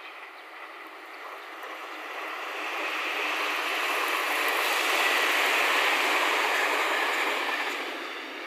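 A long white electric passenger train running past on the line. The rumble of its wheels on the rails builds to a peak about halfway through and then fades away.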